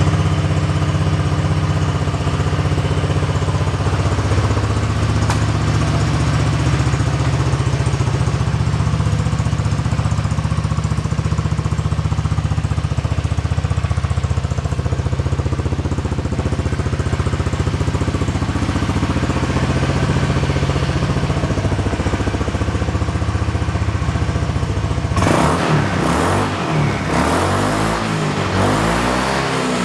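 Honda PCX scooter's single-cylinder, fuel-injected engine running steadily at idle through a custom aftermarket muffler. Near the end the throttle is blipped several times, the exhaust note rising and falling in pitch.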